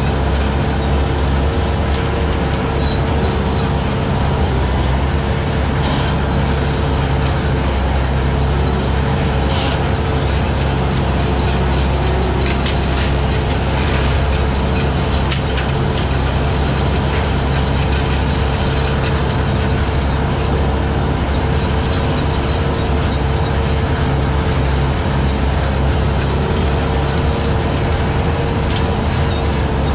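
Skid steer engine running steadily under load while driving a 72-inch hydraulic brush cutter, with a few brief knocks in the first half.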